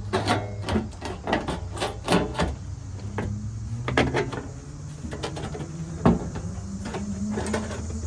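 Irregular knocks and taps from hand work on a truck's body panels during rust repair, about fifteen sharp strikes at uneven spacing over a steady low hum.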